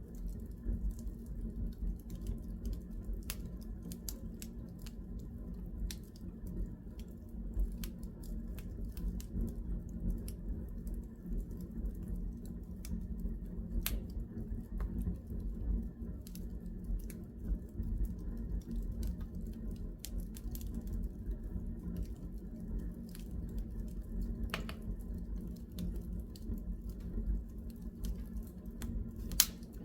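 Wood fire crackling in a fireplace: irregular sharp snaps and pops over a steady low rumble of the flames, with one louder pop near the end.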